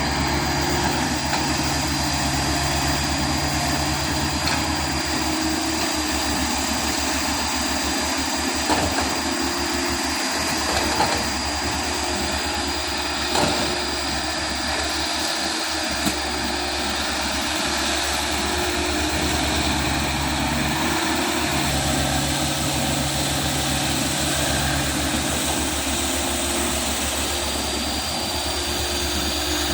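Komatsu PC100-6 excavator's diesel engine running steadily, with a steady high whine above it and a few short knocks near the middle.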